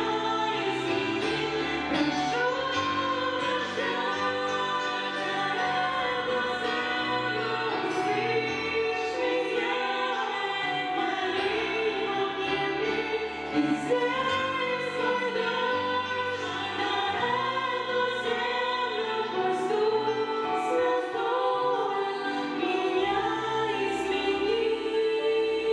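Choral singing, several voices in harmony, with musical accompaniment.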